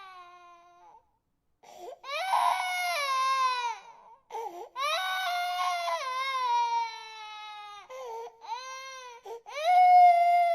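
Infant crying in long wails, each falling in pitch, broken by short catches of breath. The loudest cry comes near the end.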